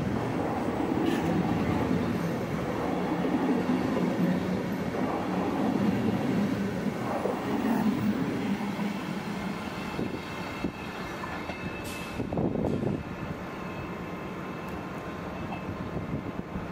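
Flixtrain passenger coaches rolling past on the track, their wheels rumbling and clattering over the rails. The sound dies down about two-thirds of the way through as the last coach goes by, with one sharp click shortly after.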